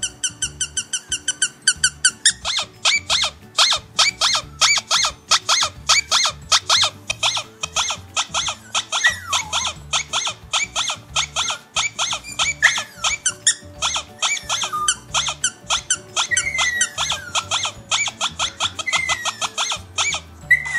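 Rapid, even run of squeaky dog-toy squeaks played from a phone app, about five a second, with a few longer falling squeals mixed in during the middle stretch.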